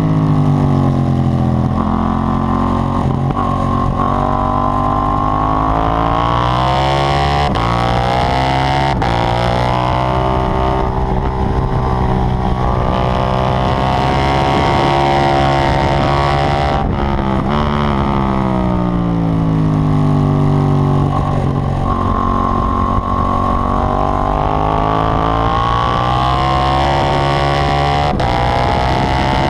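KTM 790 Duke's parallel-twin engine on track, revving up through the gears again and again, the pitch climbing over several seconds and dropping back between pulls. A few short sharp clicks mark the pitch drops.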